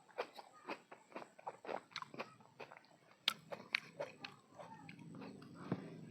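Close-miked chewing of crunchy food, with crisp crunches about three or four times a second. From about halfway through the crunches thin out and a steady low hum rises beneath softer chewing.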